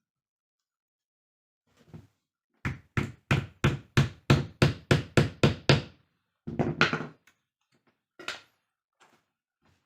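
A quick run of about a dozen sharp knocks, some three to four a second, then a short rougher clatter and one more knock.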